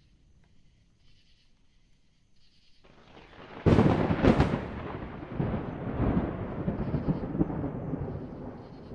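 Lightning strike: about three seconds in, a rising hiss breaks into two sharp cracks about half a second apart, followed by rolling thunder that slowly fades.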